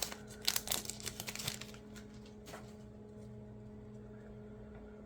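Light rustling and clicking of a card pack's wrapper and cards being handled for about the first two seconds, then only a faint steady electrical hum.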